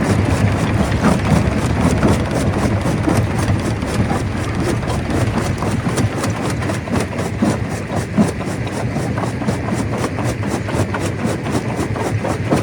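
Stone crusher running: a steady heavy engine drone with a dense, continuous clatter of small knocks from rock being broken and tumbling through the machine.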